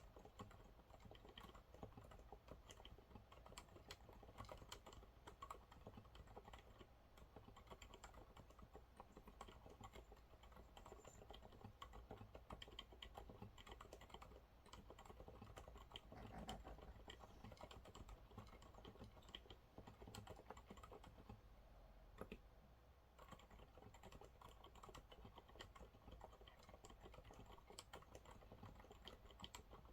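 Quiet, continuous typing on a Monsgeek MG108W mechanical keyboard with TTC silent brown switches: a steady, dense run of soft, muted keystrokes.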